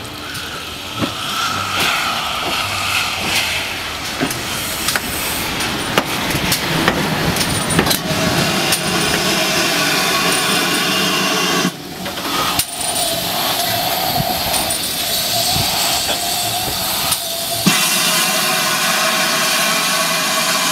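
Steam train on the move: a steady running rumble with frequent sharp clicks of wheels over rail joints, cut abruptly a few times.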